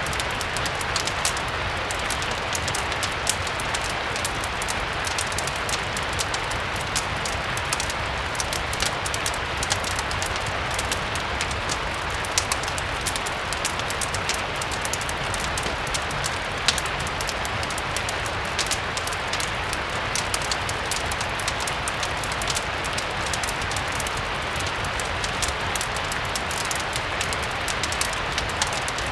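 Steady rain mixed with a crackling fireplace: an even rain hiss with many small, sharp crackles scattered through it, two of them louder about 12 and 17 seconds in, over a low steady rumble.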